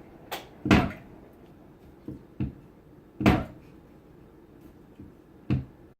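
A handful of sharp knocks and bumps at uneven intervals, like household handling sounds. The loudest comes just under a second in and another just after three seconds.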